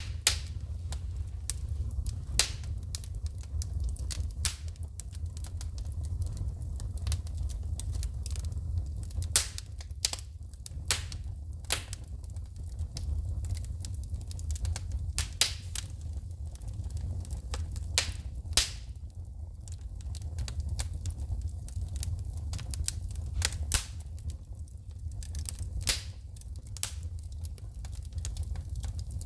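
Wood fire in a fireplace crackling, with irregular sharp pops and snaps as sparks shoot, over a steady low rumble of the flames.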